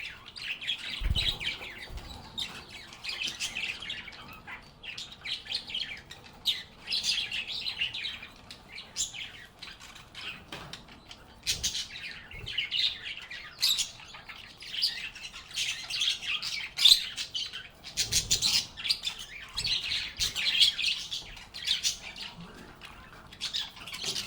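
Several lovebirds chattering, with rapid, overlapping high chirps and squeaky calls that run on without a break, and a brief low thump about a second in and again later.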